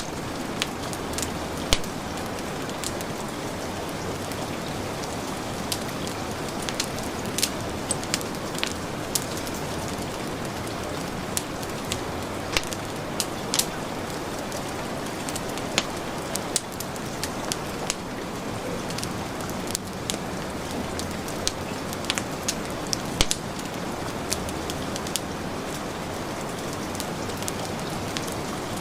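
Heavy rain falling steadily, mixed with a wood fire crackling: many sharp, irregular pops and snaps over the even hiss of the rain.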